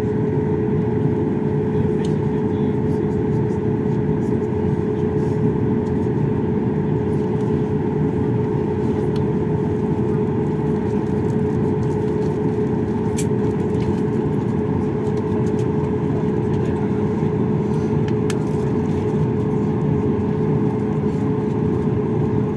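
Steady airliner cabin drone on the ground after landing, jet engines running, with a constant humming tone and a few faint ticks.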